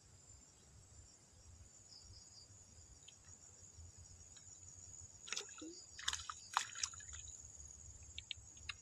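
Steady high-pitched insect chorus, with a few short clicks and rustles about two-thirds of the way in.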